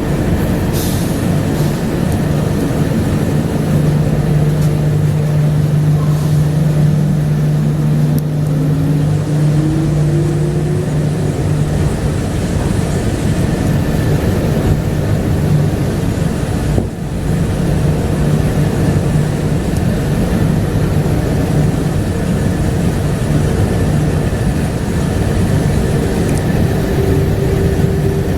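A 1999 Bombardier APM100 rubber-tyred light rail car running along its guideway: a steady rumble with a low motor hum. About a third of the way in, a whine rises in pitch.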